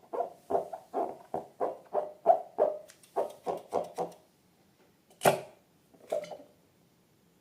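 Slime being squeezed and worked by hand, making a rhythmic run of short squishy squelches, about three to four a second, that stops about four seconds in. One loud, sharp squelch follows, then a softer one.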